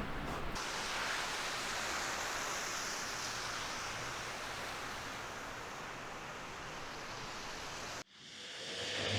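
Steady rushing wind in a snowstorm. It cuts off suddenly near the end, and a low engine hum fades in.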